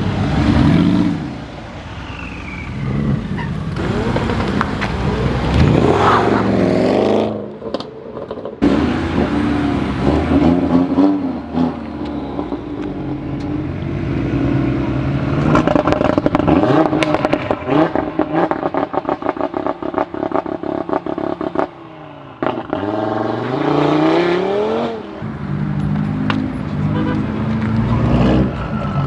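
Car engines revving up and falling back several times, one after another, with a rapid run of pops and crackles through the middle.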